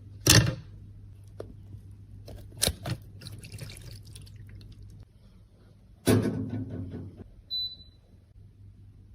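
A few sharp taps and clicks of small objects being handled during cosmetic repair, with a louder knock about six seconds in followed by about a second of scratchy scraping, over a steady low hum.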